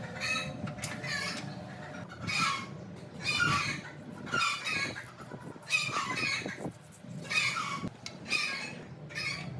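Chickens calling, a string of short calls about once a second.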